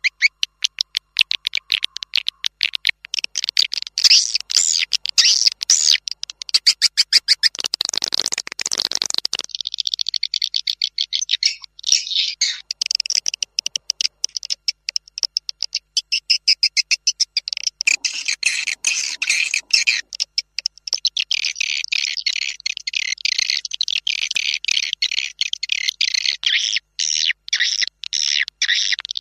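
Swiftlet lure recording of edible-nest swiftlets chirping and twittering in fast, dense, overlapping trains of high chirps, played to attract swiftlets to a nest house. About eight seconds in there is a brief, noisier rush.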